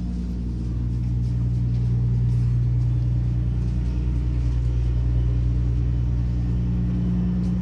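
Ro-ro ferry's diesel engine running, a steady low hum with a few pitched lines.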